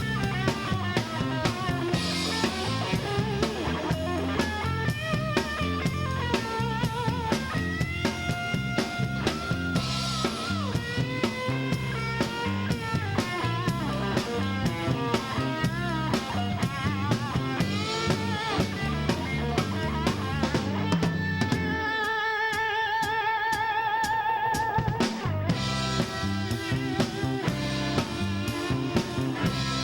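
Live rock-and-soul band playing an instrumental section, with a steady drum-kit beat, bass and electric guitar. About 21 seconds in the drums and bass drop out and a single held note wavers with vibrato for a few seconds before the full band comes back in.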